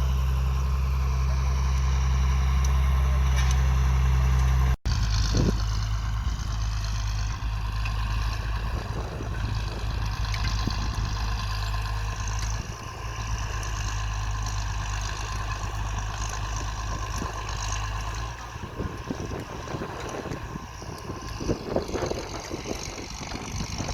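Tractor engine running steadily as it tills the soil, a constant low hum. After about eighteen seconds the engine sound falls away, leaving scattered knocks near the end.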